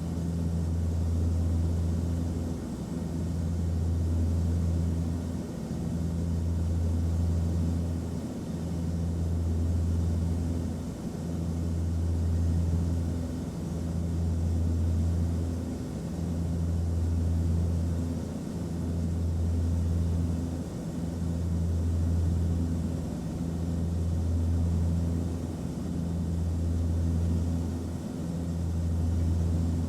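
Airplane cabin noise in flight: a steady low drone and hum that swells and eases evenly about every two and a half seconds.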